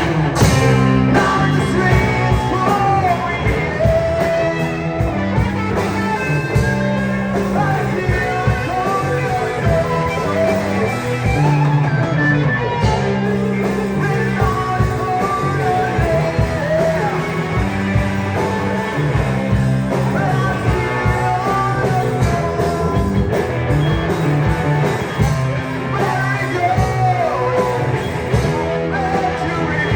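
Live rock band playing: electric guitar, bass and drum kit with a singer, loud and steady.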